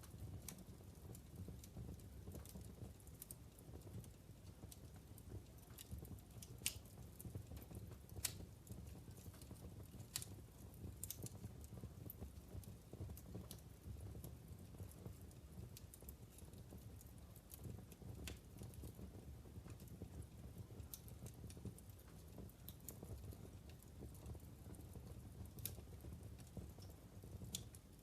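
Wood fire burning in a fireplace: a quiet, steady low rumble of flames with scattered sharp crackles and pops from the burning logs, a handful of them louder snaps.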